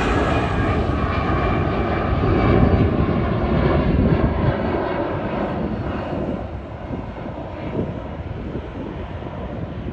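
Jet airliner passing, its engines loud with a faint whine in the first few seconds, then the noise fading steadily as it moves away.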